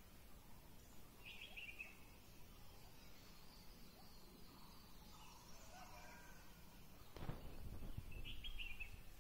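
Quiet outdoor ambience with a songbird calling: a short chirpy phrase about a second in, repeated near the end, and softer calls in between. From about seven seconds in there is a low rumble on the microphone.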